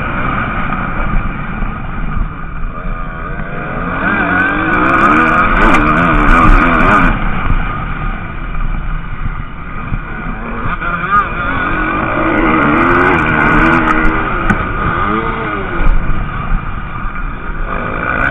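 MX2 motocross bikes racing by, their engines revving up and down as riders work the throttle. Two louder passes swell up, one a few seconds in and another past the middle.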